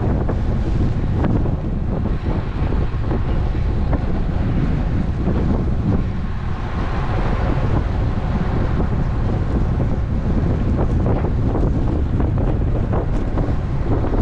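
Wind buffeting a GoPro Hero 11 action camera's microphone while riding a road bike: a steady, gusty low rumble with a brief swell of higher hiss about seven seconds in.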